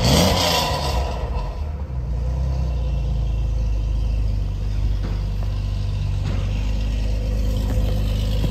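BMW E36 drift car's engine just after starting: the revs fall from the start-up flare in the first second and it settles into a steady idle.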